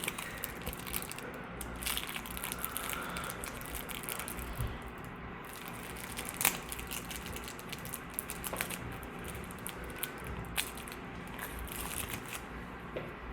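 Continuous crinkling and crunching, with many irregular sharp crackles, the sound of something being crumpled or crushed.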